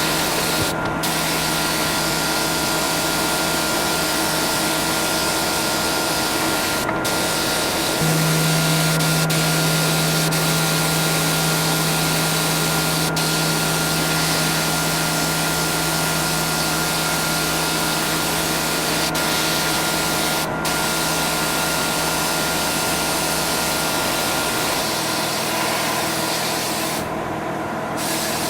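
Compressed-air tool hissing steadily over a steady motor hum, as in media blasting or spray-gun work. The hiss cuts out briefly a few times and breaks off for about a second near the end.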